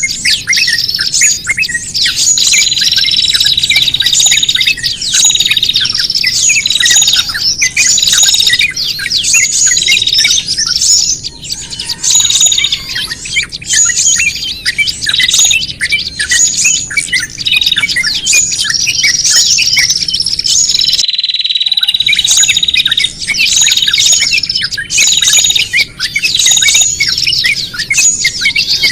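Many small songbirds calling noisily and excitedly at once: dense, rapidly repeated high chirps and squawks, the 'ribut' (agitated) sound used as a lure to trap small birds. The calling breaks off into silence for about a second past the two-thirds mark, then starts again.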